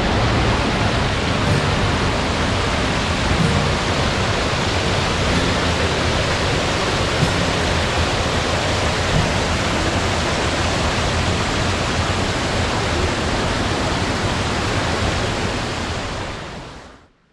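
Rushing water from a waterfall or fast stream: a loud, steady roar that fades out near the end.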